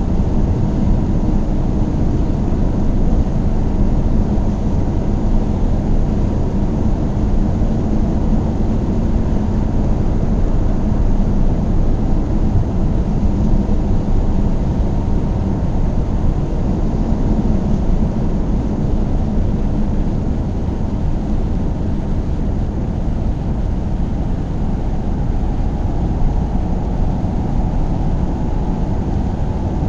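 A car being driven at a steady pace: an even engine hum and road rumble with no change in pace.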